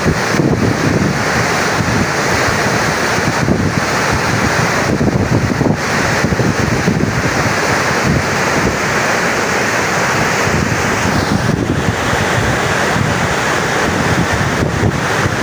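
Water discharging down the Tarbela Dam service spillway: a loud, steady rush of water, with wind buffeting the microphone.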